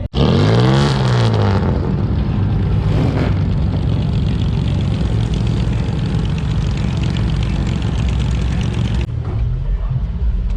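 Car engine revving once, its pitch rising and then falling, then running loudly and steadily. The high hiss over it cuts off suddenly near the end.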